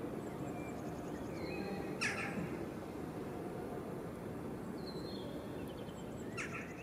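Birds calling outdoors: short thin whistles that slide in pitch, with a brief flurry of chirps about two seconds in and another near the end, over a steady low background rumble.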